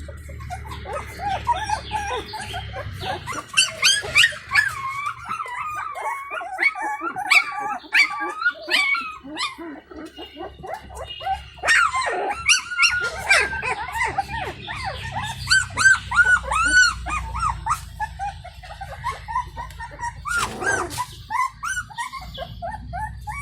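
Puppies whimpering and crying in a continuous string of short, high, rising-and-falling cries. This is the crying puppies use to get their mother's attention.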